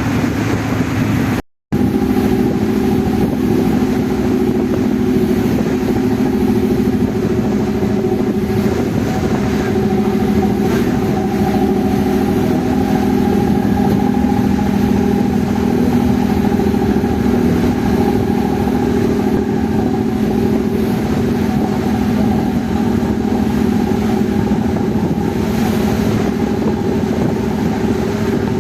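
A passenger ferry's engine droning steadily, a low hum with a few steady tones over a wash of noise, heard from on board. The sound breaks off for a moment about a second and a half in.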